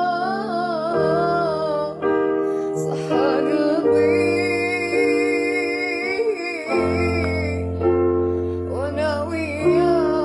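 A woman singing an Arabic song, with piano or keyboard chords held underneath.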